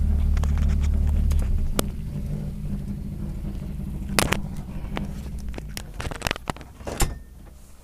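Rally car's engine idling and then switched off about one and a half seconds in, leaving a fading hum. A few sharp clicks and knocks follow, louder around four and seven seconds in, from the crew moving about inside the cabin.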